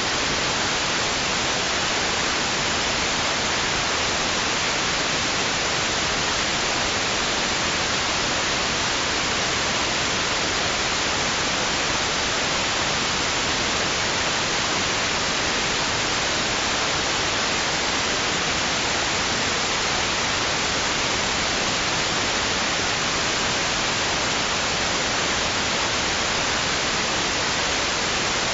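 Steady white noise: an even, unchanging hiss, brighter in the upper range, with no rise or fall in level.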